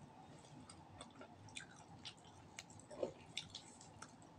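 Faint close-up chewing of roast duck, with scattered soft mouth smacks and small wet clicks.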